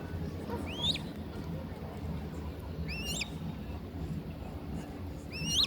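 A bird calling three times, a short call that sweeps upward in pitch each time, repeated about every two seconds over a steady low hum.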